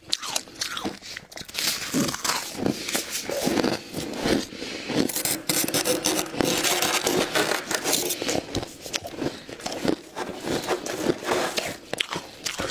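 Ice being scraped: a dense run of short, scratchy strokes with some crackling.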